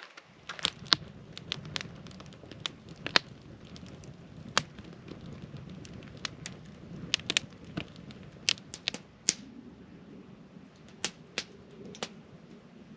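Wood campfire crackling, with sharp, irregular pops over a low steady rush of the flames.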